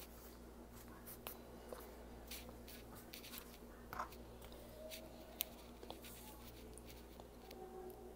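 Faint chewing: scattered soft wet mouth clicks and smacks, over a low steady hum.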